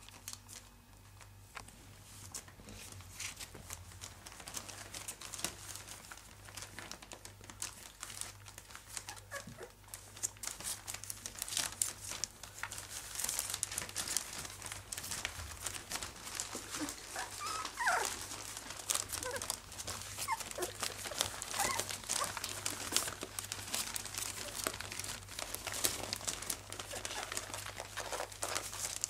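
Three-and-a-half-week-old English Cocker Spaniel puppies rustling and scrabbling about, a dense crackle that grows busier after about ten seconds, with a few short high whimpers in the second half.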